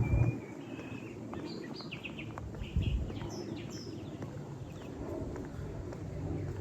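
Small birds chirping in woodland, a run of short calls in the middle, over a low steady background rumble.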